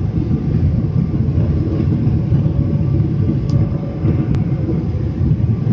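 Passenger airliner's steady low rumble as it lands on the runway, with a faint steady hum above it and two short clicks a little past halfway.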